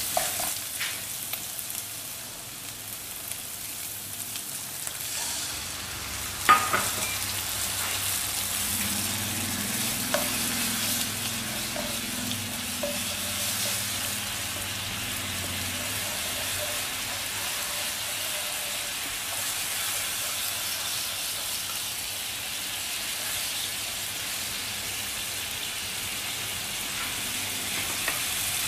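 Yellow curry paste and garlic sizzling in oil in a non-stick wok, stirred with a spatula, with one sharp knock about six seconds in; coconut milk is then stirred in and the pan keeps up a steady sizzle as it cooks.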